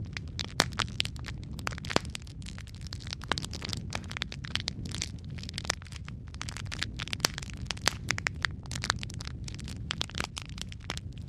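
Wood fire burning in a fireplace: a steady low rumble of flames with frequent irregular crackles and sharp pops of burning wood, a few of them loud.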